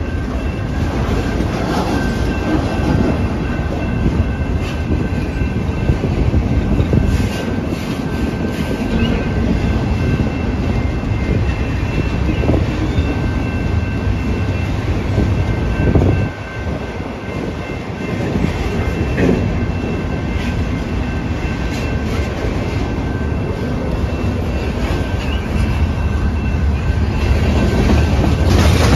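A long freight train of autorack and box cars rolling past close by: a steady, loud rumble and rattle of steel wheels on rail, with a thin steady high whine over it. The sound dips briefly about sixteen seconds in, then carries on.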